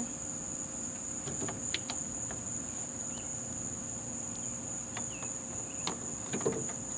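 Crickets trilling steadily in a continuous high-pitched drone, with a few sharp clicks from work on the engine.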